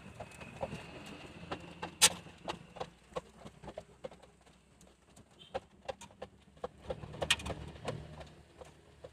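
Caged pigeons cooing low in two stretches, near the start and again near the end. Many small rapid clicks of beaks pecking at feed grain run through it, with two louder sharp knocks about two seconds and seven seconds in.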